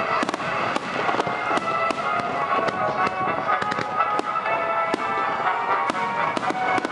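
Fireworks going off in a rapid series of sharp bangs and crackles, with music playing along underneath.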